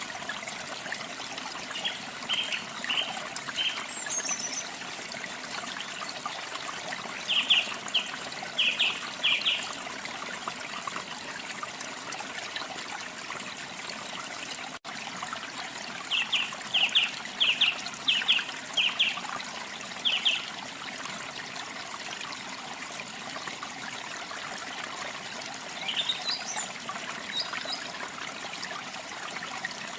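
Steady running water, a stream or small waterfall, with a small songbird chirping in three short runs of quick repeated notes, plus a few faint higher calls. There is a brief dropout about halfway through.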